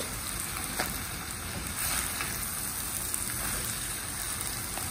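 Leftover rice sizzling gently in hot oil in a clay cooking pot as a spatula stirs it, with a couple of light scrapes against the pot.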